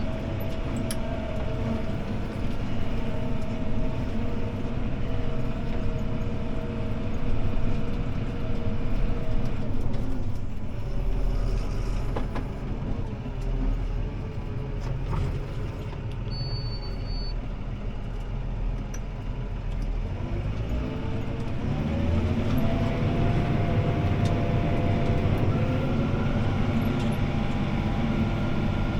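CLAAS Arion 650 tractor engine running steadily in the cab while pulling a disc harrow. About a third of the way in, the engine note drops back. It rises again a little over two-thirds of the way through.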